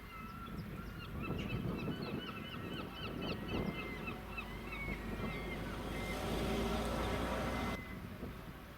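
Birds calling with many quick short chirps over a low outdoor rumble. Near the end a louder hissing noise rises and cuts off suddenly.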